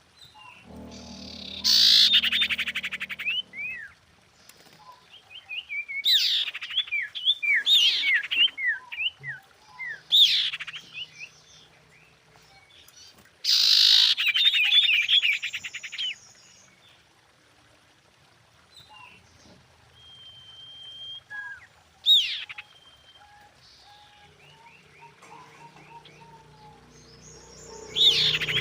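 Female common iora calling: loud bursts of rapid trills run into strings of short slurred chirps, a phrase every few seconds, with a quieter lull partway through.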